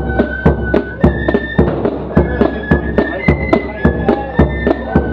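Corps of drums band playing a march: flutes carry the melody in held notes that step from one pitch to the next, over drums beating a steady rhythm of several strokes a second.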